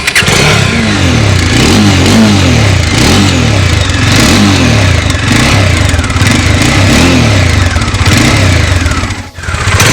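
Bajaj Dominar 400's 373 cc liquid-cooled single-cylinder engine being revved through its exhaust, the pitch rising and falling about once a second. It drops away sharply for a moment near the end, then comes back.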